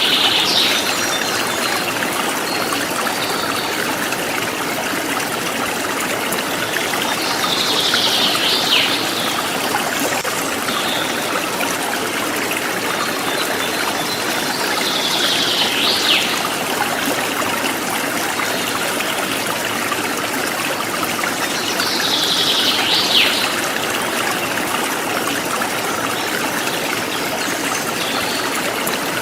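River stream flowing steadily, a continuous rushing and trickling of water. A high call that falls in pitch recurs about every seven to eight seconds, four times.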